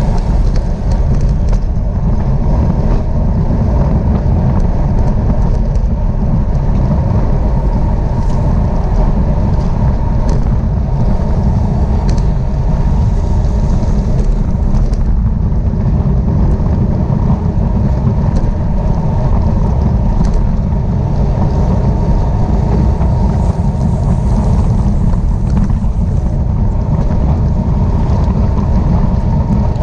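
Wind buffeting the microphone of a camera riding along at bicycle-race speed: a steady, loud, low rumble.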